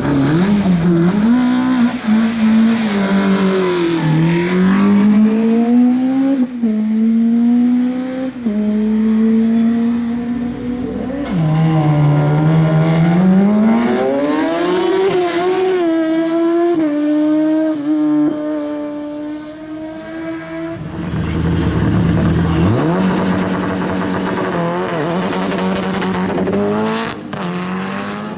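Hill climb race car accelerating hard away from the start, its engine climbing in pitch and dropping back at each upshift, several times in a row. About two-thirds of the way through, another car's engine takes over, running steadier with a high rising whine above it.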